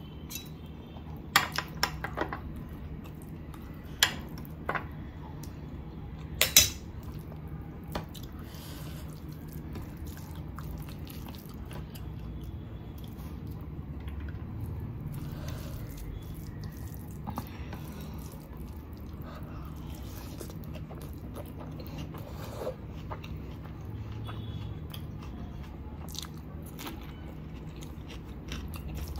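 Close-miked chewing and biting of chicken biryani eaten by hand, with several sharp mouth clicks and smacks in the first few seconds, then softer, irregular chewing.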